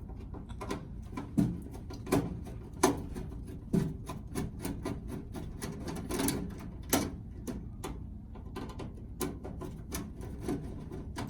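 Hand screwdriver backing out a long screw from the underside of a microwave: a run of small, irregular clicks and scrapes, a few a second, over a low steady hum.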